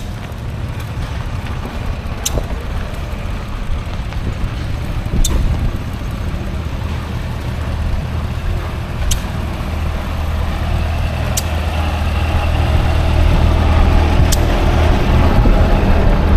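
Engine running steadily, getting louder over the last few seconds, with a sharp click every two to four seconds.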